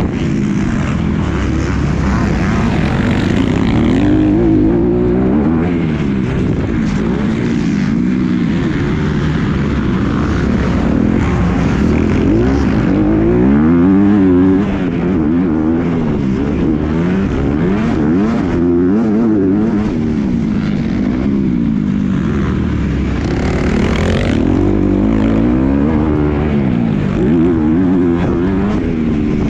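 Motocross bike engine ridden hard round a track, revving up and dropping back over and over as the throttle opens and closes, with wind noise.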